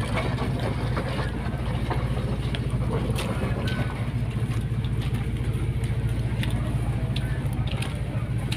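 Steady low drone of a fast passenger ferry's engines, with a few faint clicks and knocks over it.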